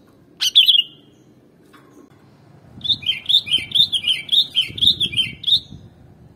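Sooty-headed bulbul (kutilang) calling: one short chirp, then a quick run of about ten chirping notes lasting nearly three seconds.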